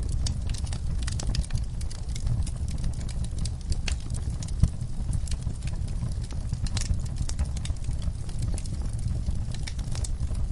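Wood fire burning in a fireplace: a steady low rumble of flames with irregular crackles and pops, one sharper pop about halfway through.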